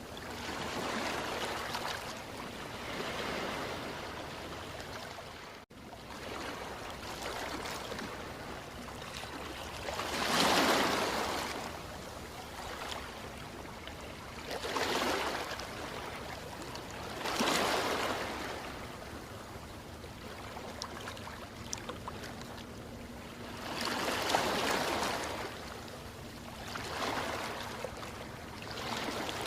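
Ocean waves washing onto the shore, swelling and falling back every few seconds, with the loudest surges about ten, seventeen and twenty-four seconds in. The sound drops out briefly about six seconds in.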